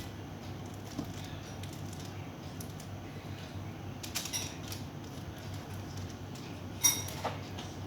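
A few sharp clinks of cutlery and dishes. The loudest comes near the end with a brief metallic ring.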